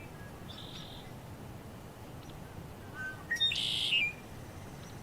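Birds calling over a faint steady forest background. There is a short high note about half a second in, then a few quick rising chirps and a louder buzzy call around three to four seconds in.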